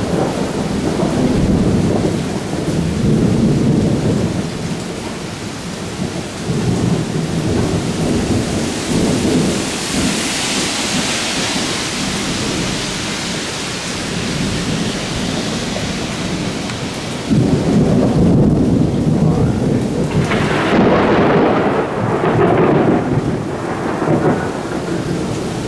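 Heavy thunderstorm: rain pouring down under rolling thunder, the rumbling rising and falling in waves. The rain's hiss swells about ten seconds in, and a sudden louder surge of rumbling comes in about seventeen seconds in.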